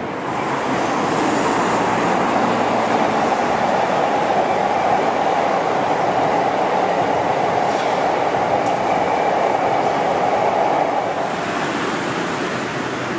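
A train running past on the rails: a steady running noise of wheels on track that swells in about half a second in and drops away near the end.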